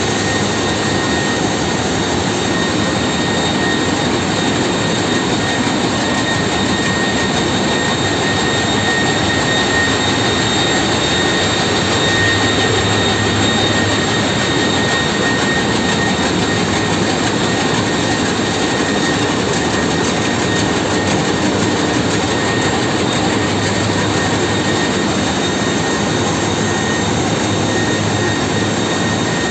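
Ship's engine room machinery running steadily: a loud, unbroken mechanical din with a steady high whine over it.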